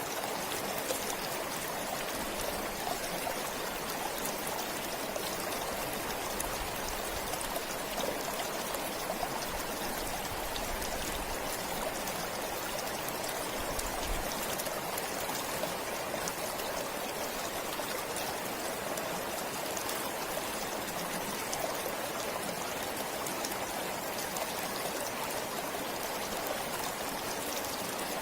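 A forest stream flowing steadily, an even rush of water with small trickles and splashes over it.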